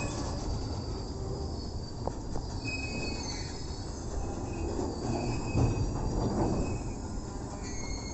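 Indian Railways goods train running, with a steady low rumble of wagons and thin, high wheel squeals that come and go.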